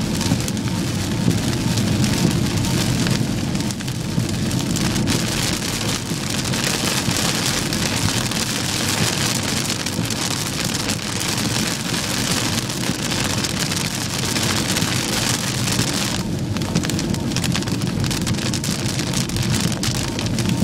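Heavy thunderstorm rain beating steadily on a moving car, over a constant low road rumble. The rain hiss thins a little near the end.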